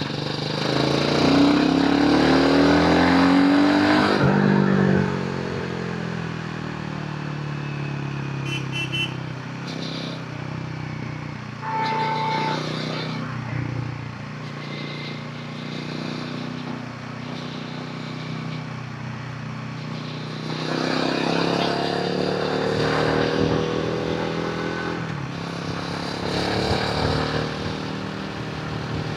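Royal Enfield Himalayan 450's single-cylinder engine and exhaust under way: it accelerates hard in the first few seconds with the pitch rising, eases off to a quieter run, then pulls up through the revs again about twenty seconds in and once more near the end.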